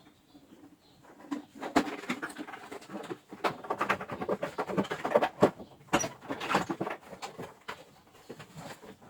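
Irregular clicks, knocks and rattles of parts and tools being handled at a workbench. They start about a second in, are busiest in the middle, and die down near the end.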